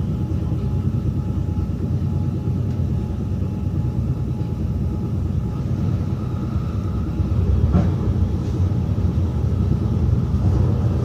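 Steady low rumble of a running train, with a faint whine over it and a short click about eight seconds in.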